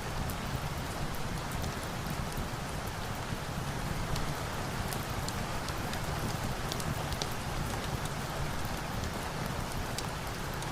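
Steady rain layered with a crackling fire: an even wash of rain with scattered sharp pops.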